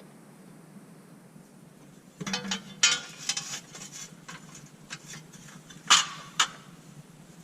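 Loose steel bolts and hand tools clinking and rattling together, with two sharp metallic clinks near the end, while bolts are set into a flywheel on an LS engine's crankshaft.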